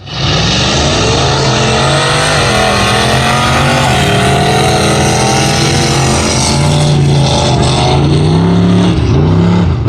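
Loud truck engine running hard at high revs, its pitch wavering, then dropping and climbing again near the end.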